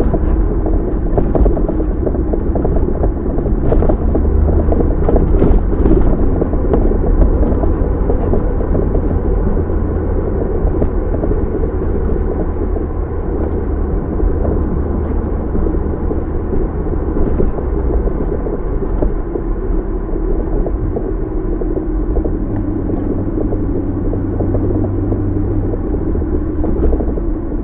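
Car driving, its steady road and engine noise picked up by a dashcam inside the cabin as a low rumble, with a few light clicks about four to six seconds in.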